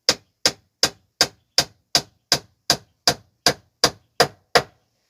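Hammer driving a nail into wood: a steady run of about thirteen even blows, nearly three a second, that stops near the end.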